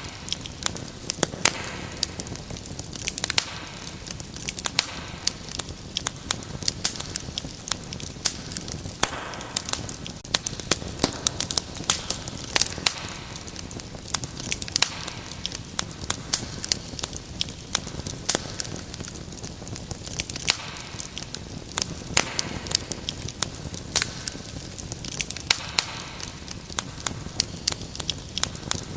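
Fireplace fire crackling, with many irregular sharp pops and snaps over a steady soft hiss.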